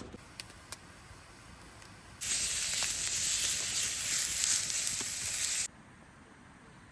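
A steady hiss that starts suddenly about two seconds in, lasts about three and a half seconds and cuts off suddenly.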